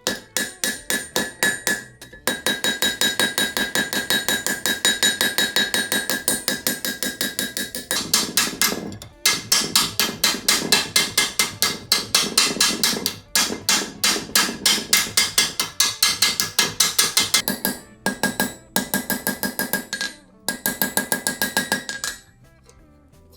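Rapid, steady hammer blows on iron over an anvil, about five strikes a second, each with a ringing metallic note. The blows come in runs broken by brief pauses and stop shortly before the end.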